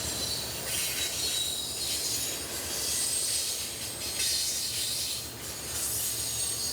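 A train rolling by on the rails, its wheels squealing in high, wavering tones over a steady rumble.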